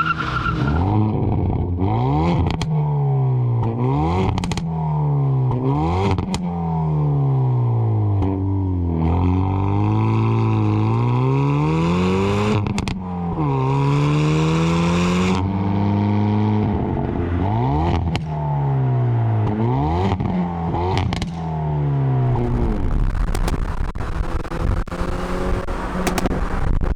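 Hyundai Veloster N's turbocharged four-cylinder engine and exhaust revving up and dropping back again and again, as if pulling through the gears, with sharp exhaust pops between the pulls. About three quarters of the way through the engine note fades and a rough crackling carries on.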